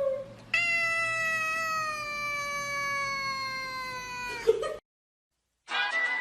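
A cat gives a long drawn-out yowl: one steady call slowly falling in pitch for about four seconds, just after the end of an earlier call. It cuts off into a second of silence, and music starts near the end.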